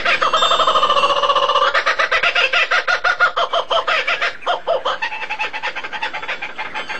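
Birds calling in a loud, rapid, pulsing chatter of many short repeated notes, thinning out over the last two seconds.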